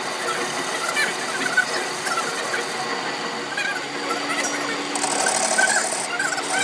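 Workshop machine running steadily with short, wavering squeals over it; the sound changes about five seconds in.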